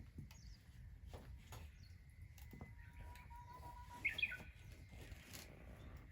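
A bird's short chirping call about four seconds in, over quiet rural background noise with scattered faint clicks.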